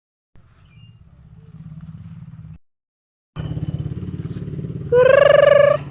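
An engine running with a rapid, even pulse, dropping out for under a second midway and coming back louder. Near the end a loud steady tone sounds for about a second, with a slight rise at its start.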